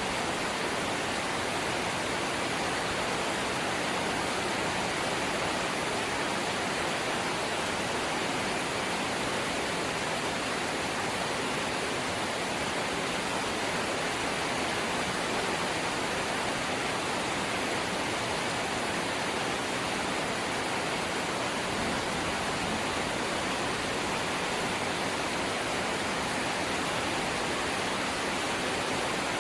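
Light rain falling as a steady, even hiss with no separate drops standing out.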